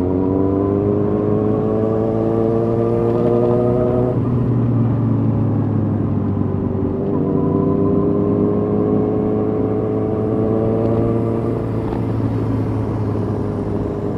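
Suzuki GSX-R1000's inline-four engine under way, its pitch climbing slowly, falling away about four seconds in, then climbing again from about seven seconds before easing off near the end.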